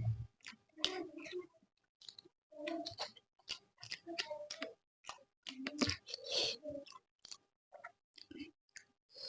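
A person chewing a soft mouthful of rice and vegetable curry close to the microphone, with wet lip-smacking and irregular mouth clicks.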